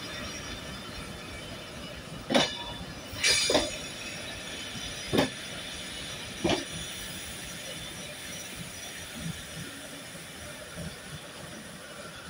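Railtour train of coaches at a station platform: a steady high squeal and hiss over a low rumble, broken by four loud metallic clanks between about two and seven seconds in.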